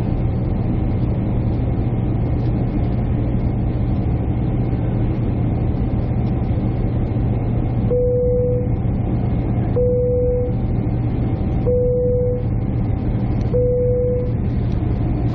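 Steady low hum of airliner cabin and engine noise. About halfway in, a short mid-pitched electronic beep starts, repeating about every two seconds.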